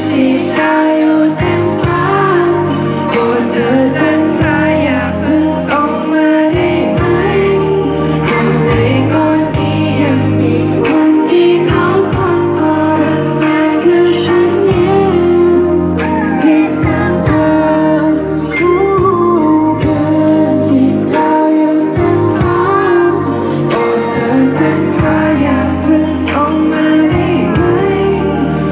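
A song sung over instrumental backing, with a steady bass line changing notes about every second.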